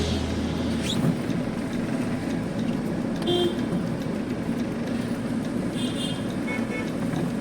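Truck engine and road noise while driving in traffic, with two short horn toots about three and six seconds in.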